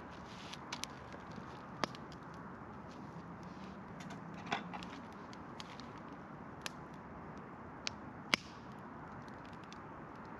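Campfire crackling: scattered sharp pops and snaps over a steady low hiss, the loudest snap coming near the end.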